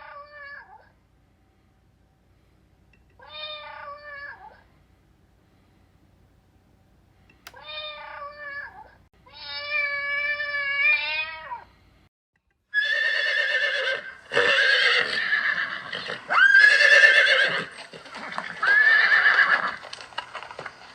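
Farm animal calls: four separate wavering calls a few seconds apart, then from about 13 seconds in a louder run of overlapping calls that sweep up in pitch.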